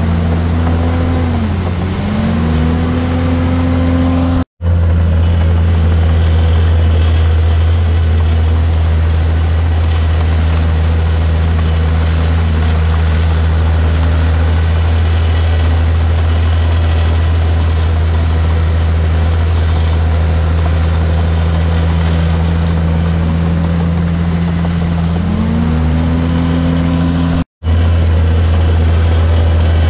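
Komatsu D51PX bulldozer's diesel engine running steadily under work. Its note dips and recovers about two seconds in and rises again near the end. The sound cuts out completely for a split second twice.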